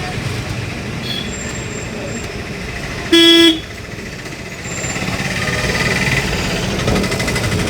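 A vehicle horn gives one short, loud blast about three seconds in, over the steady road and engine noise of a moving vehicle.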